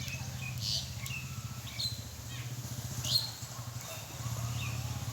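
Birds chirping: short, sharp calls about once a second, the loudest about three seconds in, over a steady low hum.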